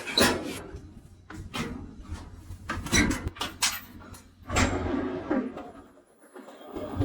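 A series of irregular knocks and rattles, the loudest about three seconds in and again around four and a half to five and a half seconds, over a faint steady low hum.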